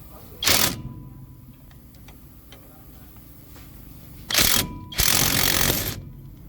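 Three loud bursts of harsh mechanical noise from workshop tool work: a short one about half a second in, another after about four seconds, and a longer one of about a second right after it.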